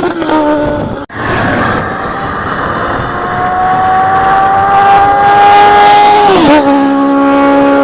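Four-cylinder motorcycle engine under way: its revs fall about a second in, the sound cuts out for an instant, then the revs climb steadily for a few seconds, drop sharply near the end and hold at a lower pitch.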